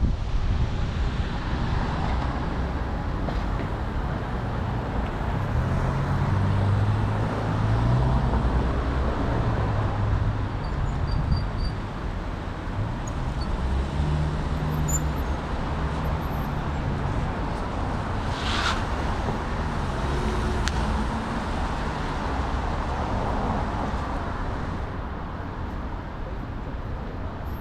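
City street traffic heard from a bicycle: a steady rush of road noise, with the low hum of car engines rising and fading as vehicles pass. A short, sharp sound stands out about two-thirds of the way through.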